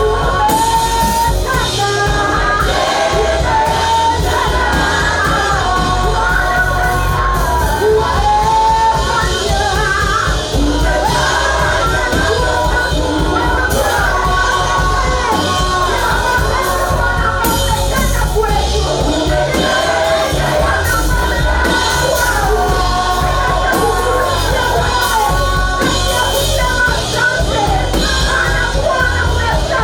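Live worship music: voices singing a song over a band with drums and bass.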